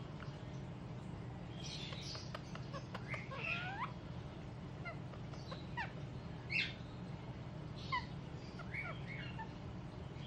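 Young Indian ringneck parakeet making scattered soft chirps and short squeaky calls, some sliding downward in pitch, with a few faint clicks about two seconds in.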